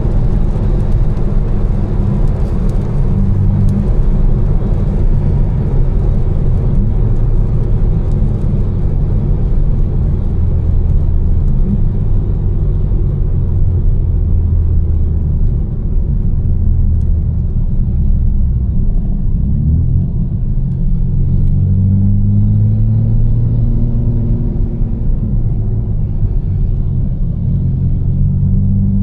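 A tuned BMW M4's twin-turbo straight-six, with catless downpipes and an Fi exhaust, running steadily under a cruise-level drone that shifts in pitch a few times. Over it is a steady hiss of tyres on the wet road, which thins out somewhat in the second half.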